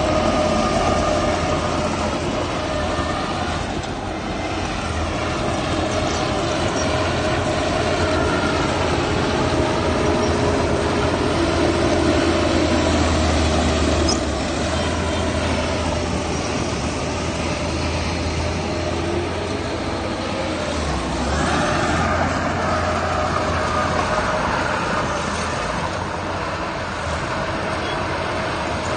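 Heavy diesel machinery running steadily, its engine note slowly rising and falling, with a harsher, higher sound joining about three-quarters of the way through.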